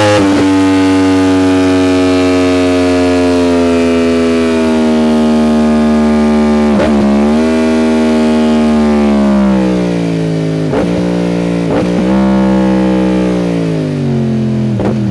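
Yamaha R1 inline-four engine through an aftermarket exhaust, running under way with its pitch falling slowly over several seconds, broken by brief dips about seven seconds in and a few times near the end.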